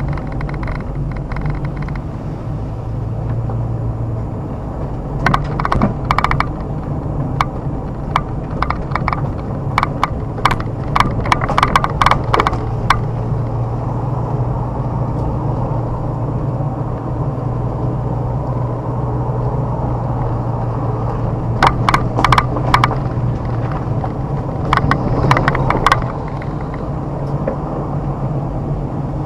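Car engine running steadily as the car drives along a rough road, with two spells of rapid sharp clicks and rattles, one from about five seconds in and another near the end.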